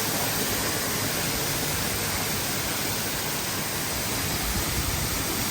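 Roar of a tall, narrow waterfall plunging with a lot of water, a steady, even rush of white noise that sounds like a jet.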